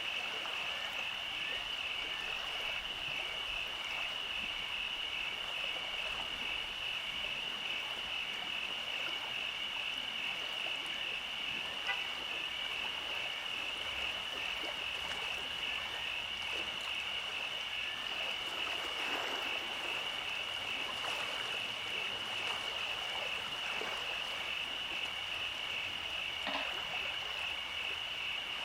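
Summer night ambience: a steady, high-pitched, gently pulsing trill from a chorus of night-calling animals, over a soft even hiss, with a few faint chirps.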